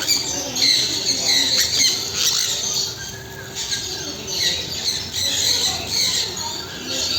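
A flock of caged parrots squawking and chirping over one another in many short shrill calls, easing briefly about three seconds in.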